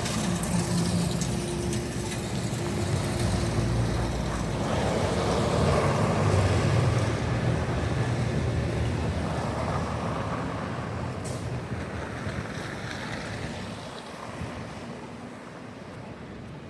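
Motor traffic passing on a downtown street: engine rumble and tyre noise that swell through the middle, then fade away near the end.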